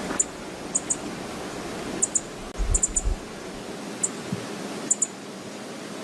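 Steady rushing roar of Brooks Falls and river water, with strong wind buffeting the microphone in low rumbles a little before halfway. Scattered short, high ticks, several in pairs, sound throughout.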